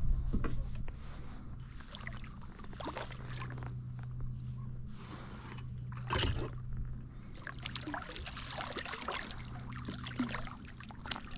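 Water splashing and dribbling beside a kayak while a hooked redfish is played toward the boat, in irregular splashes, the biggest about six seconds in, over a steady low hum.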